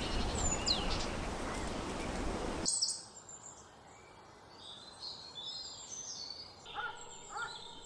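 Steady outdoor noise with one sweeping bird call, then after a sudden cut nearly three seconds in, a quieter background with several birds chirping and singing in short high calls.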